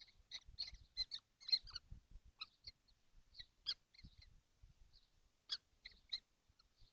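Young kestrels in a nest box giving short, high squeaky calls at irregular intervals, with soft low knocks and scuffles of the birds moving on the wooden floor.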